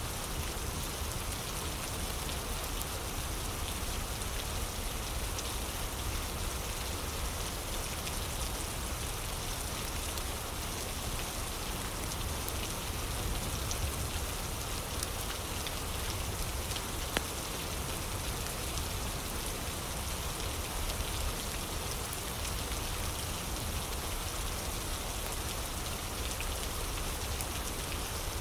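Steady rain falling, an even hiss throughout, with a few faint crackles of a wood fire and one sharper pop about 17 seconds in.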